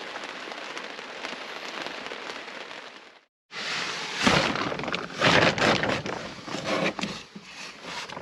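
Steady rain falling on the truck for about three seconds, then a sudden cut to louder, irregular crackling and rushing noise that swells and drops several times.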